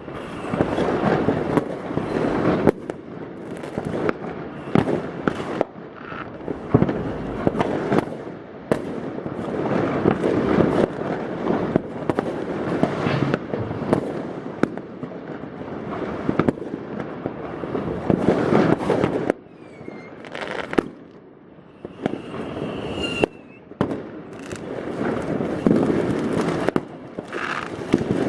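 New Year's Eve fireworks going off all around: continuous crackling and popping with many sharp bangs echoing off the buildings. Two short lulls in the second half, with a couple of rising whistles from rockets.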